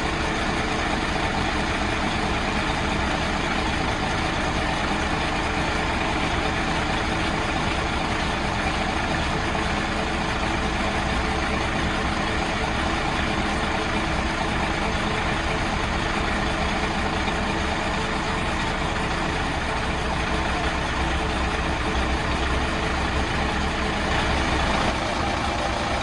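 Rebuilt Dongfeng truck diesel engine idling steadily and evenly after its rebuild.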